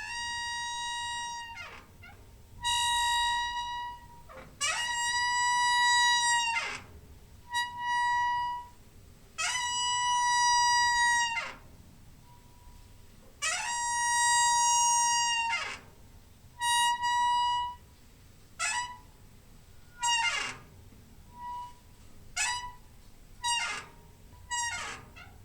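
A door's hinge squeaking over and over as the door swings. Each squeak holds one steady high pitch, then drops sharply as it ends. The squeaks are long and drawn out at first, then shorter and quicker near the end.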